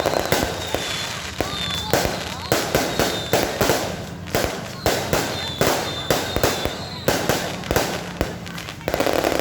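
Fireworks going off in quick succession: sharp bangs and crackles several times a second, with short high whistles in between.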